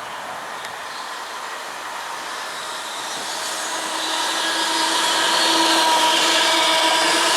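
A train approaching on a main line, growing steadily louder from about three seconds in. It makes a rushing noise with a steady whine over it.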